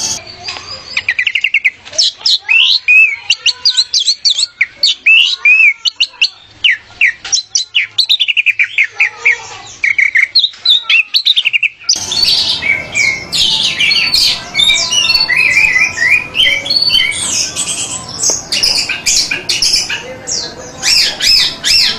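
Orange-headed thrush (anis merah) singing a fast, varied run of short whistled notes. About halfway through, the recording cuts abruptly to another take with more background hiss and a denser, louder song.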